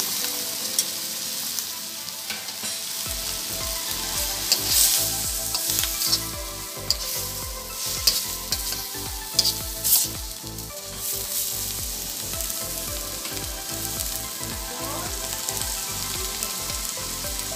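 Shrimp, onions and tomatoes sizzling in a stainless steel wok while a metal spatula stirs them, with a few sharp clacks of the spatula against the pan around the middle.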